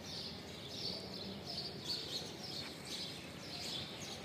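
Birds chirping in short, repeated calls, about one or two a second, some falling in pitch, over a steady outdoor background hum.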